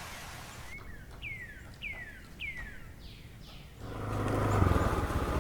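A bird calls a series of six clear, down-slurred whistled notes, evenly spaced about half a second apart, the last two fainter. About four seconds in, a steady rushing noise with a low hum sets in.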